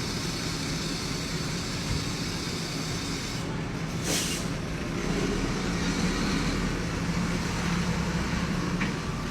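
Diesel engine of heavy machinery running steadily, getting louder from about five seconds in as it works harder. There is a short hiss about four seconds in.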